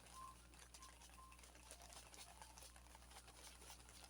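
Near silence: faint scattered light ticks and rustles over a low steady room hum.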